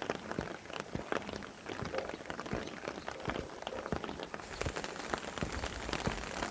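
Rain falling, with many close drops tapping irregularly over a steady hiss; a low rumble rises near the end.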